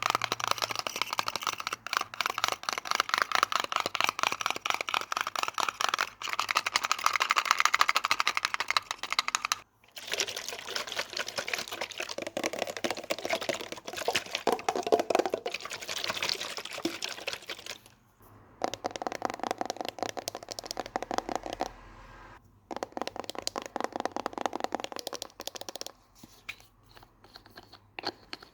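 Fast, rapid tapping and scratching on objects close to the microphone, in several runs broken by brief pauses.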